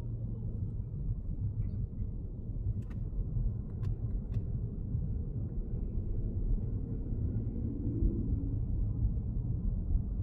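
Lexus GS450h on the move, giving a steady low road-and-tyre rumble, with a few faint clicks between about three and four and a half seconds in.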